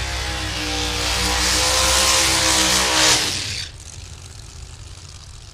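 Pro Modified drag car engine held at high revs in a burnout, with a dense hiss of spinning tyres over the engine note. The throttle is cut sharply about three and a half seconds in, dropping to a low idle.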